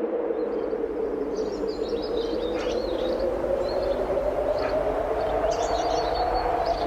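Strong wind blowing steadily, with a low howl that slowly wavers in pitch. Over it, small birds chirp in short high notes from about a second and a half in.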